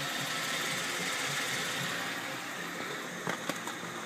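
2008 Ford Edge's 3.5-litre V6 idling steadily, heard from beside the car as an even running hiss. Two short clicks come a little over three seconds in.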